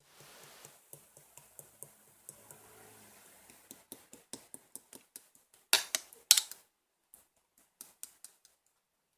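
Clear slime being pressed and pulled, giving a run of sticky clicks and pops about three or four a second, with two louder crackling squishes around six seconds in and a few scattered clicks after.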